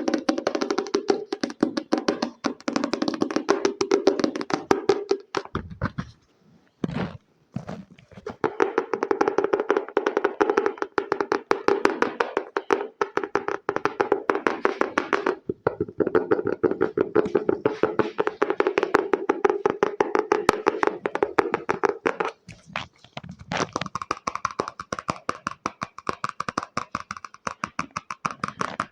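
Very fast tapping on a hard object, many taps a second, with a short break about six seconds in. The taps turn brighter and higher-sounding a little past the two-thirds mark.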